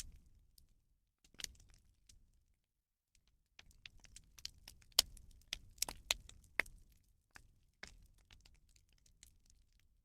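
Bonfire of burning rubbish crackling, with irregular sharp pops and snaps that come thickest around the middle.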